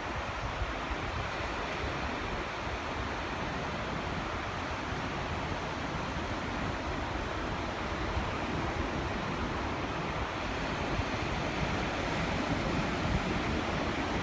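Steady wash of ocean surf with wind noise on the microphone.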